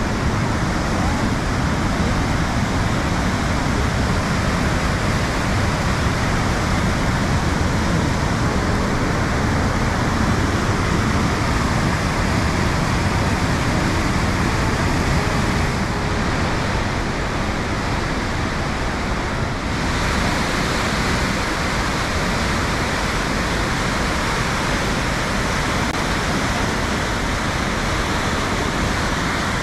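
Waterfall's white water rushing, a loud steady noise with no breaks.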